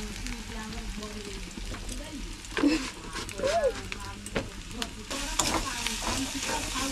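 Minced chicken mixture sizzling as it fries in a kadai on a gas flame, stirred with a steel spatula that scrapes and clicks against the pan now and then.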